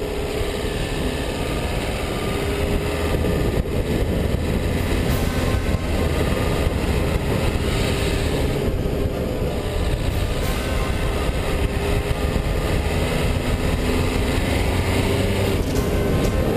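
Dacia Duster's 1.5 dCi four-cylinder turbodiesel running steadily while driving, with a low engine hum and road noise.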